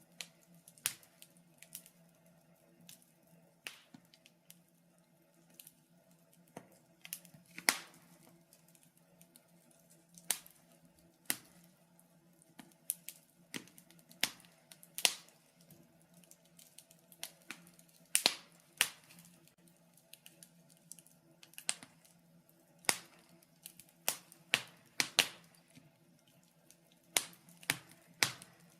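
Wood fire crackling in a fireplace: sharp, irregular pops and snaps of varying loudness, sometimes several in quick succession, over a faint steady low hum.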